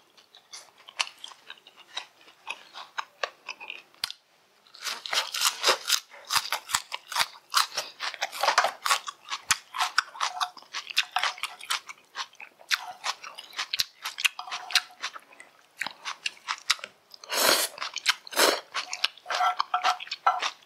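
Close-miked eating: wet chewing and crunching with sharp mouth clicks. It is sparse at first, then much louder from about five seconds in, with another loud stretch near the end.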